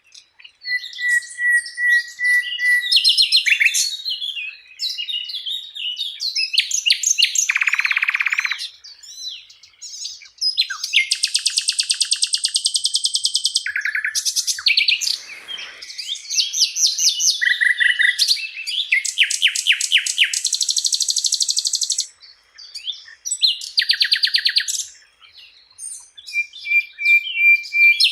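Sikatan Londo flycatcher singing a long, varied song: quick high trills, buzzy rattling runs and strings of repeated whistled notes, broken by short pauses.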